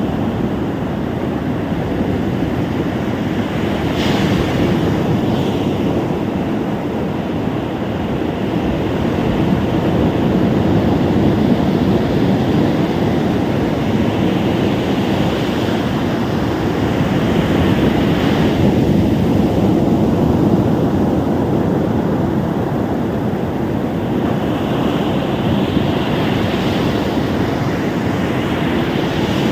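Ocean surf breaking and washing on a beach: a continuous rush of water that swells louder and eases off every several seconds.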